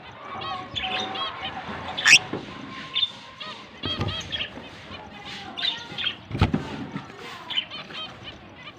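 Lovebirds chirping: many short, high, overlapping calls, with three sharp knocks spaced through them.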